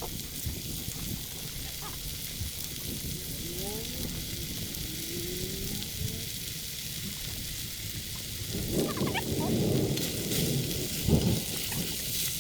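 Food sizzling and frying in a pot over an outdoor cooking fire, a steady hiss with low rumbling under it; about two-thirds of the way through it grows louder and busier.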